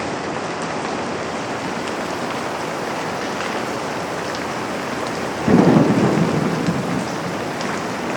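Steady rain falling on a window. A sudden low rumble about five and a half seconds in is the loudest moment, fading over a second or two.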